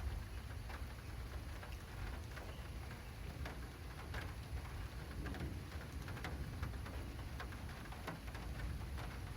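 Rain falling on an acrylic rain canopy: many scattered, irregular drop ticks over a steady low rumble.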